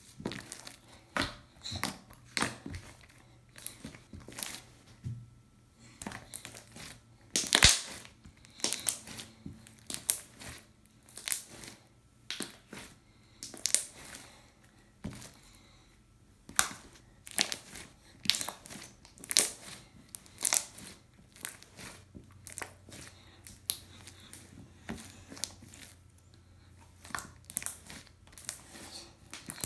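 Slime being played with by hand for ASMR, giving irregular sharp pops and crackles, the loudest about eight seconds in.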